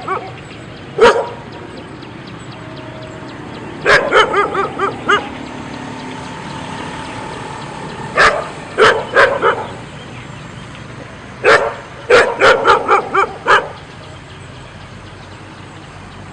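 A dog barking in bouts of several quick barks: one bark about a second in, then runs of barks around four, eight and twelve seconds in, with pauses between.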